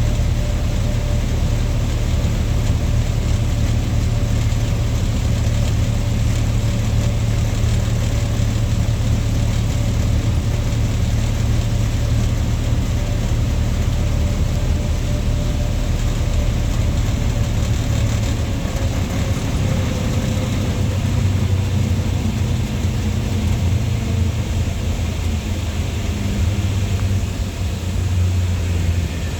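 Lorry engine running steadily with road noise, a deep hum throughout and a faint whine that slowly drops in pitch partway through.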